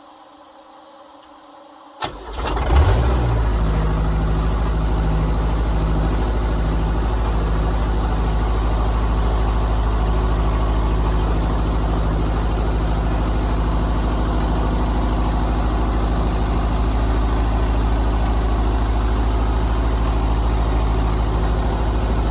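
John Deere 70 skid steer engine cranking and catching about two seconds in, then running steadily.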